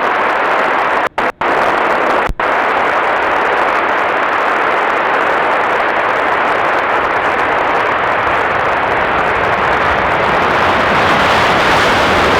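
Steady hiss of static from an airband scanner radio between air traffic control transmissions, cutting out sharply three times within the first two and a half seconds.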